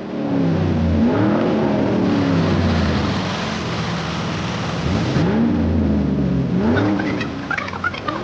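Vehicle engine sound effect revving up and down several times over a steady low hum, with a hiss that fades out about five seconds in.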